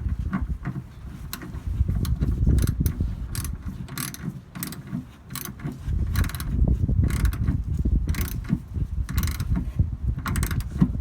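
Hand ratchet with a 9/16 deep socket clicking in short runs as it turns a new threaded fuel filter into an Onan generator's fuel pump. There is a low rumble of handling noise underneath.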